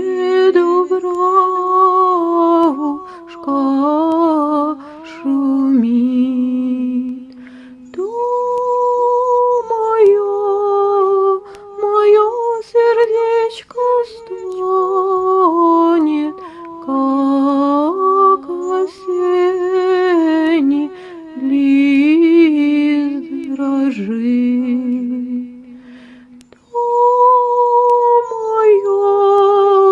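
A woman's solo unaccompanied voice carrying the slow melody of a Russian folk song in long, drawn-out notes, with short pauses between phrases.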